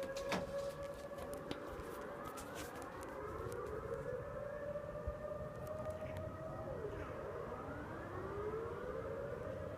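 Siren-like droning heard in the sky: one steady tone creeping slowly upward in pitch, with several fainter tones overlapping and sliding up and down across it.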